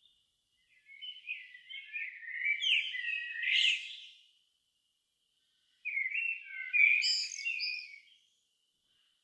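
A songbird singing two rich, warbling phrases of several seconds each, high and quick-changing in pitch, separated by a pause of about a second and a half.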